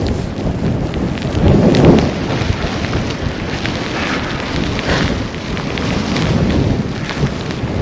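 Blizzard wind buffeting the action camera's microphone in rough gusts, with a loud gust about two seconds in.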